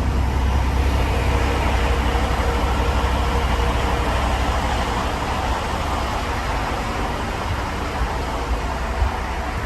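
Caterpillar C18 inline-six diesel engine idling steadily while it warms up, a continuous deep rumble that eases slightly about halfway through.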